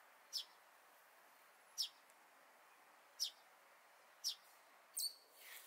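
A small bird chirping: about five short, high chirps, each falling in pitch, at uneven gaps of roughly a second, with a faint swish near the end.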